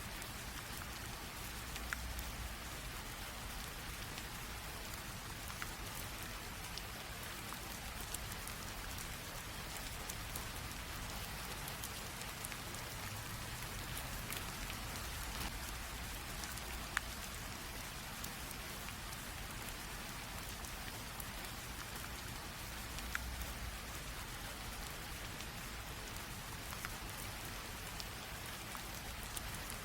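Steady light rain falling, an even hiss with scattered single drops ticking on a surface.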